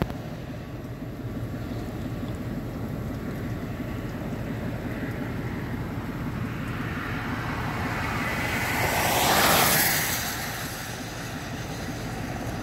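Steady low rumble of a car driving along a road. A passing vehicle's whoosh swells and fades about nine to ten seconds in, the loudest moment.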